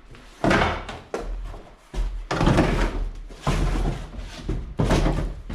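Four knocks and clatters of gear being handled, each dying away quickly, over a low steady hum.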